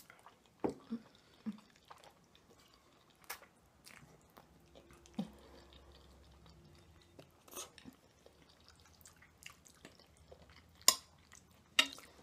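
Close-miked chewing of spaghetti in sauce: scattered wet mouth clicks and smacks, with a couple of sharper clicks near the end.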